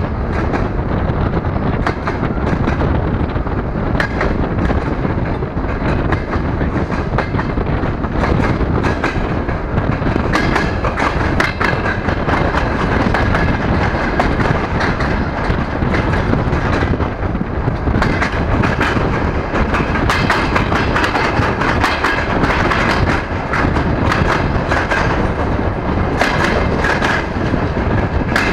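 DR1A diesel multiple unit running at speed, heard through an open carriage window: steady rolling and wind noise with irregular clicks and clatter of the wheels over the track, busier in the second half.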